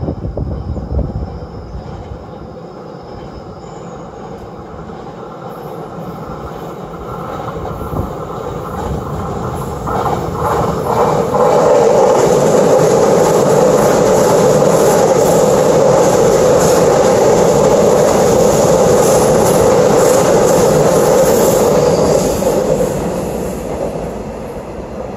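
A Line 1 electric commuter train passing on the tracks: the rumble of its wheels on the rails builds over several seconds, stays loud for about ten seconds as the cars go by, then fades near the end.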